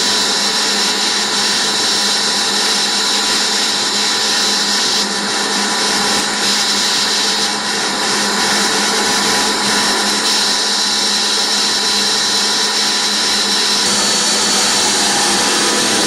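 Shop vac running steadily, its motor giving a loud, even whine.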